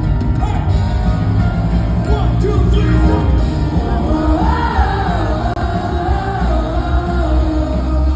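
Live rock band playing loud with heavy bass, a singer coming in with a long, wavering sung line about four seconds in. Heard from the audience through a phone microphone, boomy in the low end.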